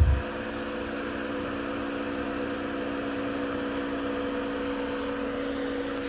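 A vehicle engine idling steadily, an even hum with a few held tones and no revving. A heavier low rumble cuts off suddenly at the start.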